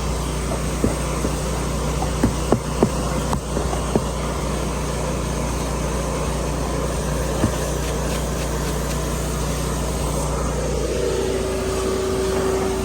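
Steady low hum of detailing machines running, with a few sharp clicks and taps in the first four seconds.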